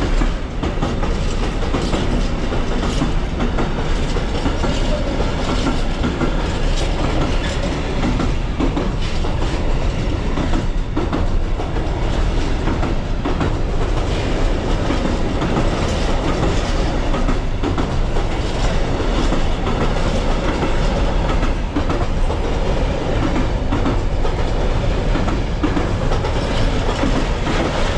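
Freight train wagons rolling steadily past, a continuous rumble with the wheels clicking over the rail joints.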